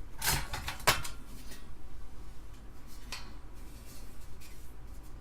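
Thin sheet-metal RF shielding being handled and pried loose from an Amiga 500's motherboard. Three light metallic clinks with faint scraping between them; the sharpest comes about a second in.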